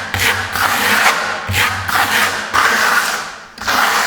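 Plastering trowel scraping wet decorative concrete-effect plaster across the surface of a fireplace, in repeated smoothing strokes about one a second, each starting sharply and fading.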